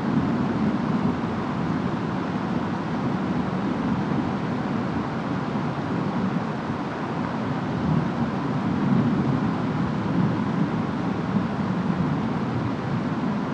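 Steady rain and wind of a storm, with a low rumble that swells and eases slowly, strongest about a second in and again around two-thirds of the way through.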